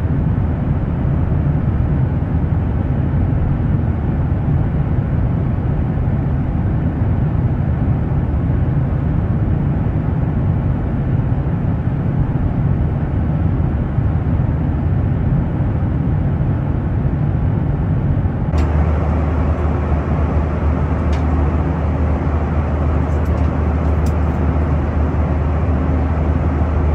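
Steady in-flight cabin noise of a Boeing 737-900ER: engine and airflow rumble. It shifts abruptly in tone about two-thirds of the way through.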